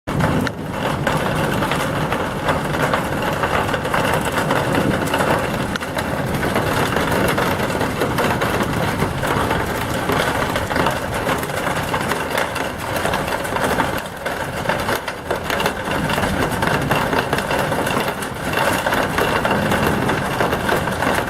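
Heavy thunderstorm downpour: a loud, steady, dense rush of rain that goes on without a break.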